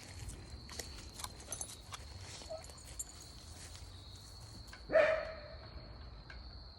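A dog barks once, loudly and briefly, about five seconds in, the pitch dropping. Light clicks and rustles run throughout, with a steady high insect buzz behind.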